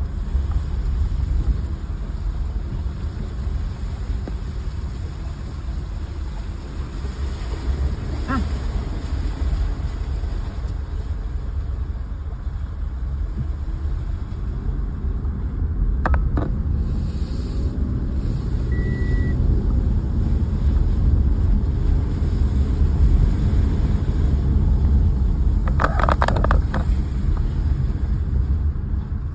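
A car driving, heard from inside the cabin: a steady low rumble of engine and road noise, with a few short knocks partway through and near the end.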